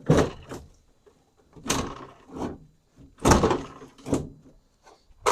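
Half a dozen separate clunks and bangs of sheet metal, the loudest about three seconds in, as the front clip of a 1989 Chevy S10 is worked loose from the truck.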